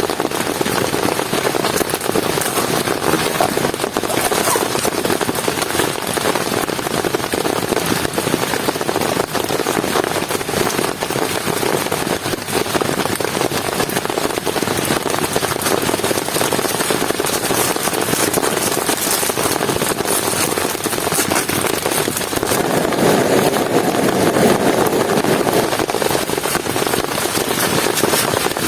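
Heavy rain falling, a dense, steady patter of drops that swells a little about 23 seconds in.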